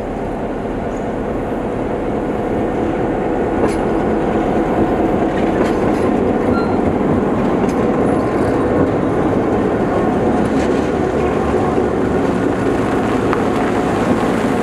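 Heritage passenger train running on the rails: a steady rumble with scattered wheel clicks. It grows louder over the first few seconds, then holds steady.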